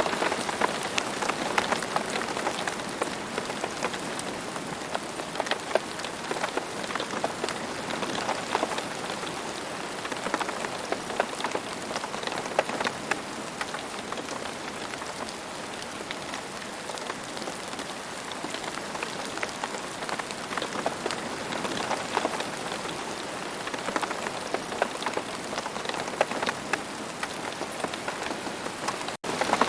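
Steady rain, a dense hiss of countless drops with many individual drop ticks in it. The sound cuts out for an instant near the end.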